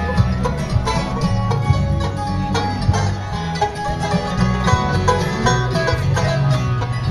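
Live country band playing an instrumental stretch with a steady beat.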